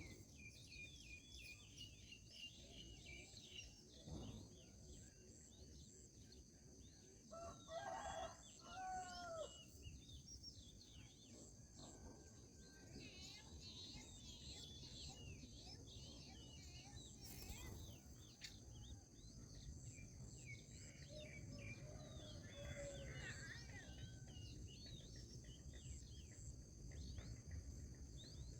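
Faint outdoor birdsong: many small birds chirping over a steady high insect drone, with a rooster crowing faintly about eight seconds in.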